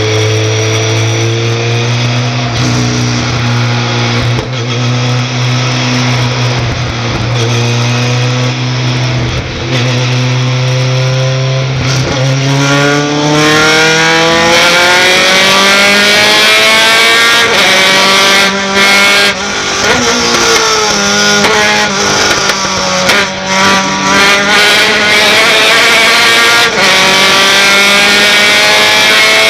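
Racing pickup truck engine running at a steady low pitch, then from about twelve seconds in accelerating hard, its pitch climbing and dropping back again and again as it changes up through the gears.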